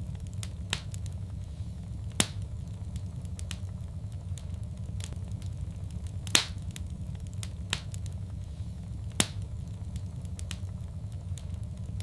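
Fireplace fire crackling, with sharp pops every second or two over a steady low rumble; the loudest pops come about two, six and nine seconds in.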